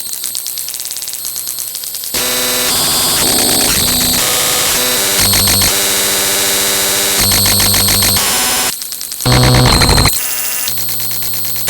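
Harsh electronic static and buzzing noise that changes abruptly from one texture to the next. It is quieter for the first two seconds, jumps much louder about two seconds in, and dips briefly before a loud burst near the end.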